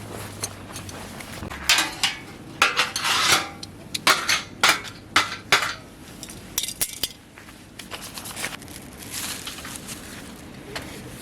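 Cookware and utensils clattering: a quick run of clinks and knocks for several seconds, then quieter handling sounds.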